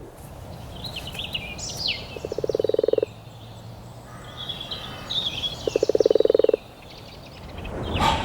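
Frog calling in two rapid pulsed croaking trills, each about a second long, the first about two seconds in and the second near six seconds, with fainter high chirps between them.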